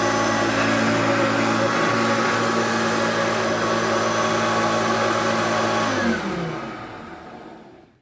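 Hoover Turbopower U2332 upright vacuum cleaner running steadily, then switched off about six seconds in, its motor winding down with a falling pitch and fading to silence.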